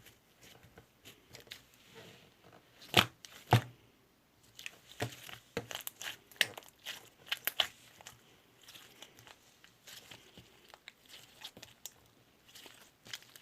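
Purple clay slime being squeezed, stretched and pressed by hand, making crackling and popping sounds. Two sharp pops about three seconds in are the loudest, followed by a busy run of crackles and then sparser ones.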